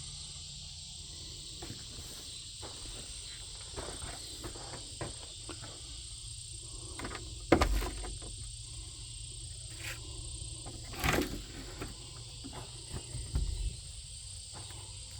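Steady high-pitched insect chorus of crickets. A few knocks and thumps come through it, the loudest about seven and a half and eleven seconds in.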